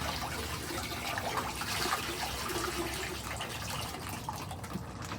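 Steady trickling and splashing of water from a garden pond's running filter.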